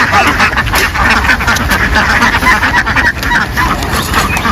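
A large flock of ducks quacking continuously, many calls overlapping in a dense, loud chatter.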